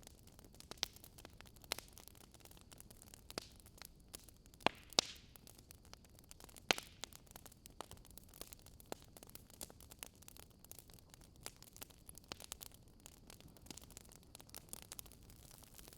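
Faint wood fire crackling: sharp, irregular pops and snaps over a steady low hiss.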